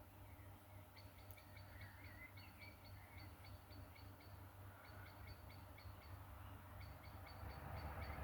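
Faint outdoor ambience: a small creature chirping in a steady, regular series, about four to five high chirps a second, with a few softer twittering chirps about two to three seconds in, over a low background hum.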